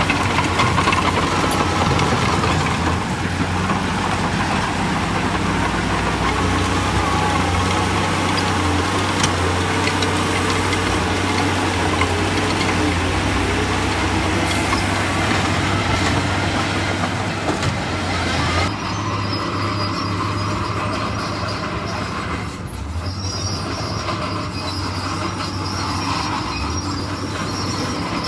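Crawler bulldozer at work: its diesel engine runs under load while the steel tracks squeal and clatter. The high hiss drops off suddenly about two-thirds of the way through.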